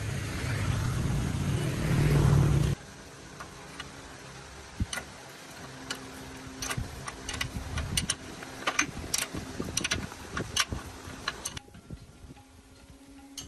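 A loud, rough machine noise that stops abruptly about three seconds in, followed by scattered sharp clicks and knocks of hard objects on metal, and near the end a quiet steady hum.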